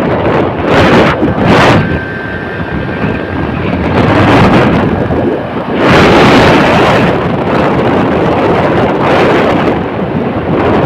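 Strong wind noise on the microphone, surging in gusts several times.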